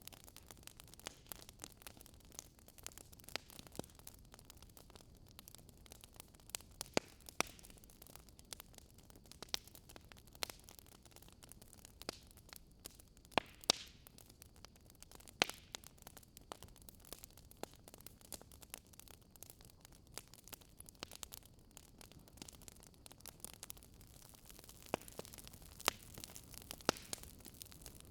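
Wood fire crackling in a fireplace: a steady low hiss with irregular sharp pops and snaps, a few louder ones about halfway through and near the end.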